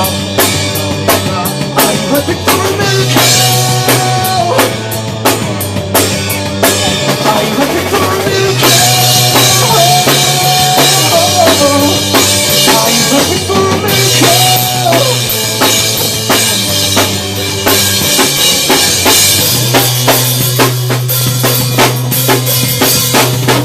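Rock band playing live through an instrumental passage with no vocals: a steady drum-kit beat with cymbals, a bass line moving between held notes, and a lead melody over the top.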